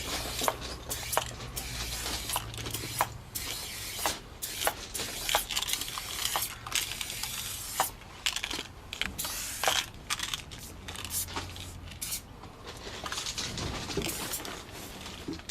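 Aerosol spray paint cans hissing in many short spurts and some longer bursts, mixed with scattered sharp clicks.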